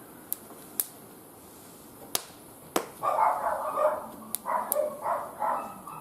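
Wood fire crackling with a few sharp pops, then a dog barking repeatedly from about three seconds in.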